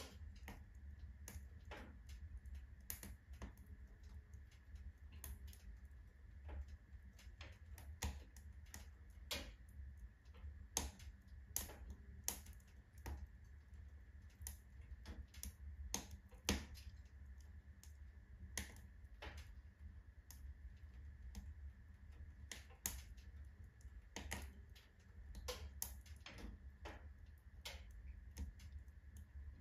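Wood fire burning in a wood stove, crackling with irregular sharp pops over a low, steady rumble.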